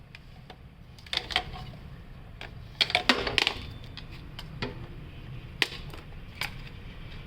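Sharp clicks and light knocks of small hard objects being handled, with a short burst of clatter about three seconds in, over a steady low hum.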